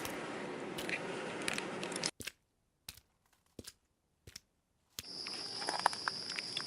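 Scattered clicks and crunches over a steady background hiss, dropping to near silence for about three seconds, then coming back with a steady high-pitched buzz and more clicks.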